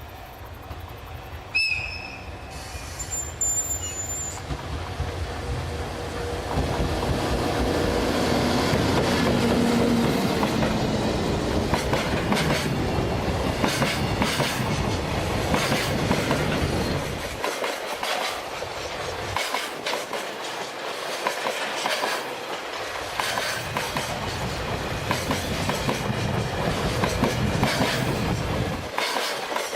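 Freight train passing, its wagons rolling by with a steady clickety-clack of wheels over rail joints, loudest from about six seconds in. A sharp, brief high tone sounds near the start.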